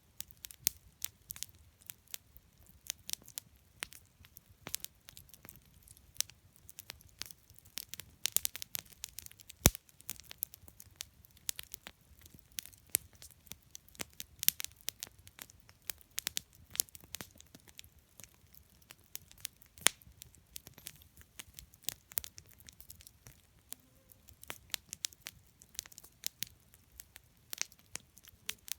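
Wood campfire burning, crackling with irregular sharp pops and snaps, a few louder pops near 10 and 20 seconds in.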